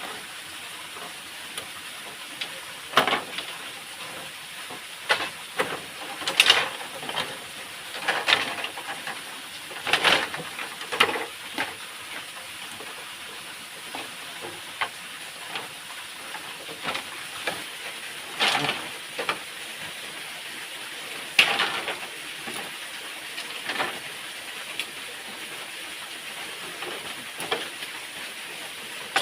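Irregular sharp cracks and rustles, scattered unevenly, over a steady hiss of running water from the waterfall.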